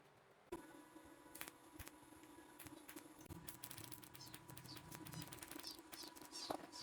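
Near silence: faint room tone with a steady low hum and a few scattered light clicks.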